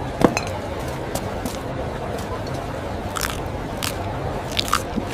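A handful of short, sharp crunching bites, like food being bitten and chewed, over a steady background rumble; the loudest bite comes about a quarter second in and two more come close together near the end.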